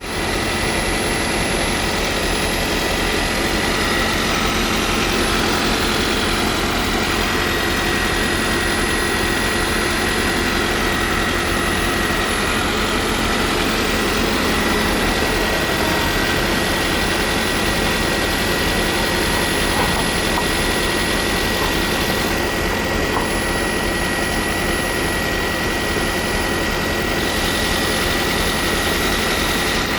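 Kia Niro's 1.6-litre four-cylinder petrol engine idling steadily, heard from the engine bay, with a thin, constant high whine over the running noise.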